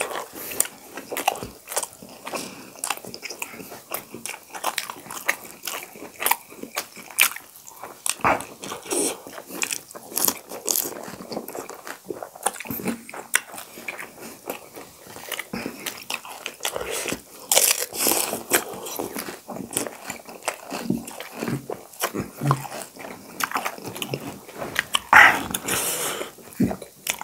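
Close-miked chewing and crunching as two people eat crisp pani puri shells and steamed momos, with irregular bites and crunches throughout.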